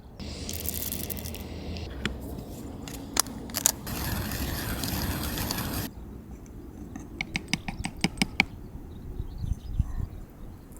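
Coffee gear being handled: sharp clicks and scrapes, two spells of steady hiss (a short one at the start and a louder one of about two seconds in the middle), and a quick run of clicks near the end.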